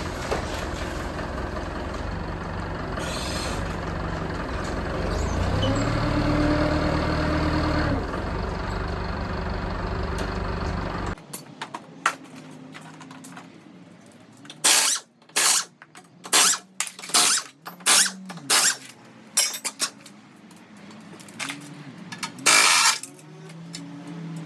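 Vehicle-dismantling machinery running steadily, then after a cut a string of about ten short, loud bursts from tools at work.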